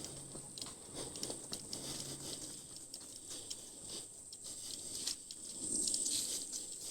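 Footsteps of a walker and dogs on a dirt trail, many small irregular crunches and patters, over a steady high-pitched hum.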